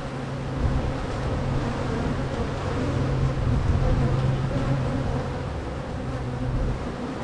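Honey bees buzzing around an open hive, a steady hum that fades near the end, with wind noise underneath.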